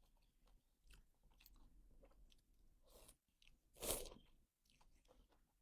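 A person chewing food with soft, crunchy clicks, fitting crispy pork cracklings (kak moo) in a bowl of noodle soup. A louder, sharper crunch comes about four seconds in.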